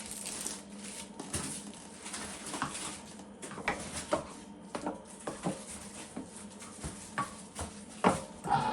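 Scattered light knocks and clatter of kitchen items being handled while ground venison is packaged into pound packages.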